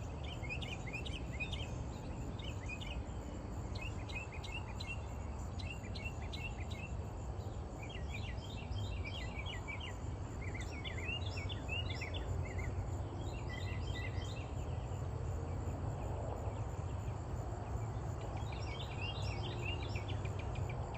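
Small birds chirping in short clusters of quick high notes that repeat every second or two, over a steady low background rumble.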